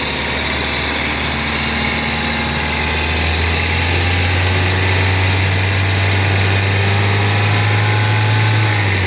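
Toyota 22R-E four-cylinder engine running while air is burped out of its cooling system. About a third of the way in the engine speeds up a little under light throttle and holds that raised speed steadily, which helps circulate coolant and push trapped air out.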